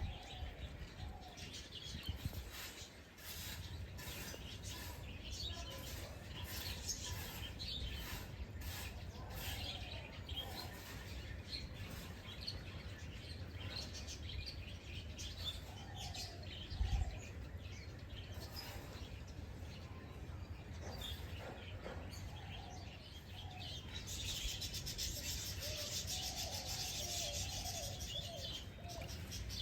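Small birds chirping and twittering in short, scattered calls over a low outdoor rumble, with a brief low thump about midway and a steady high hiss joining near the end.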